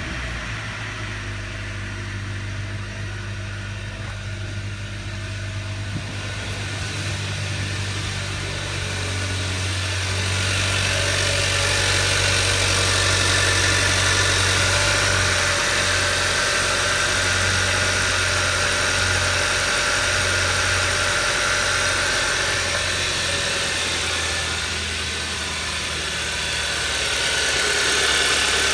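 2011 Hyundai Sonata's four-cylinder engine idling steadily on its first run after a cheap repair of a spun number one rod bearing, which had failed from running out of oil. It grows louder over the first ten seconds or so, then holds steady.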